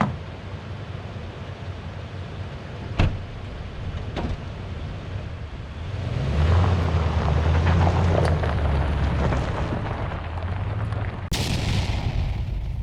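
Strong wind buffeting the microphone: an uneven rumbling roar that swells for several seconds in the middle, with a couple of sharp knocks before it.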